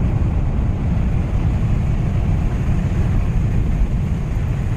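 Steady road and engine rumble heard from inside a moving vehicle's cabin, low and even throughout.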